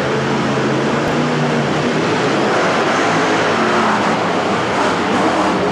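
Monster truck engine running loud, with a steady drone for the first couple of seconds that then turns rougher and noisier.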